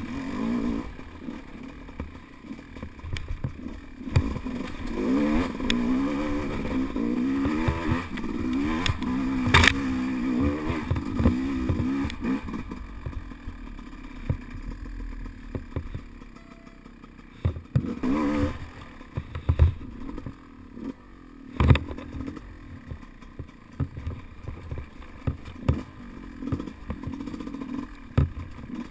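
Enduro dirt bike engine revving up and down in bursts as it climbs a rocky trail, with a longer stretch of revving about 4 to 12 seconds in and a short burst around 18 seconds. Frequent knocks and clatter from the bike and tyres striking stones.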